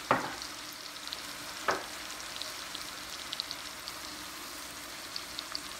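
Meatballs and chopped onion sizzling in hot oil in an enameled cast-iron braiser, with a steady hiss and small, frequent crackles. A sharp knock comes right at the start and another about a second and a half later.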